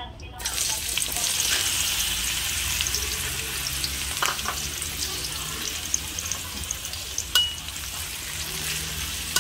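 Cubed eggplant dropped into hot cooking oil in a wok, sizzling up suddenly less than half a second in and then frying steadily. A few sharp clinks of a metal spatula against the wok, the loudest about seven seconds in.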